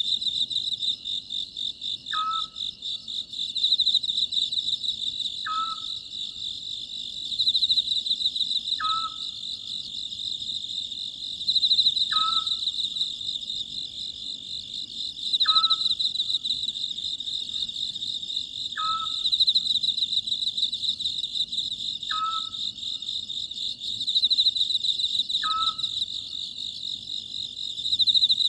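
Oriental scops owl calling in a short note with a quick downward slide, repeated evenly about every three and a half seconds, eight times, over steady, high-pitched insect chirring.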